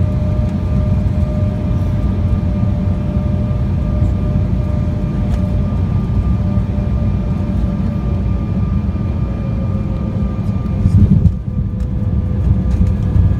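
Jet airliner cabin noise during landing: a heavy low rumble with a steady engine whine that slowly falls in pitch. The rumble surges louder about eleven seconds in, then briefly drops.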